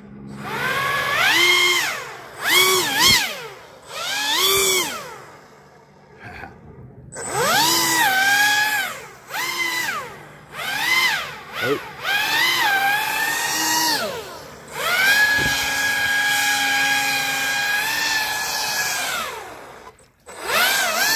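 Electric motor and fan propeller of a Pro Boat Aerotrooper RC airboat on a 4S battery, whining up and down in pitch as the throttle is pulsed in short repeated bursts. In the second half it holds a steady high whine for a few seconds.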